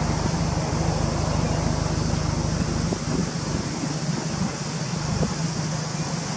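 Subaru Impreza WRX STI (GDB) turbocharged flat-four with an APEXi aftermarket muffler, idling steadily: a low, even hum over a steady high hiss. The deepest part of the hum thins out about halfway through.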